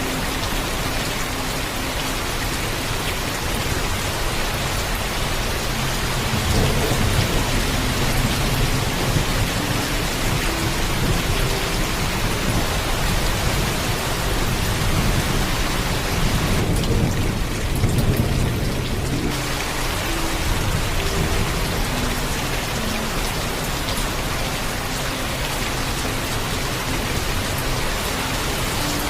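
Steady heavy rain with thunder rumbling low. The rumble swells about six seconds in and again more strongly from about sixteen to nineteen seconds.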